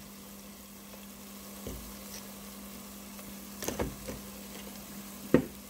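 Sliced red onions frying in mustard oil in a pot, a steady sizzle. A few short knocks sound a little past halfway, with a sharper, louder one near the end.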